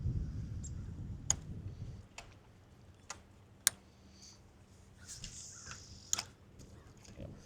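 Handling of fishing gear in a boat: about six sharp clicks and knocks a second or so apart, after a low rumble in the first two seconds.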